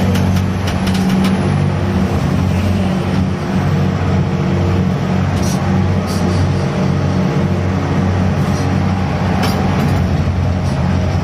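Diesel engine of a gut ship's grab-bucket crane running steadily under load during cargo handling, with a few sharp clanks spread through.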